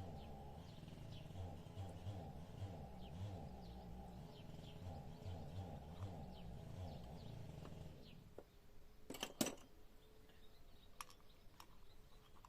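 Birds chirping faintly over a low droning hum that wavers and beats, until the hum fades out about eight seconds in. Two sharp clicks follow close together, then a few faint ticks.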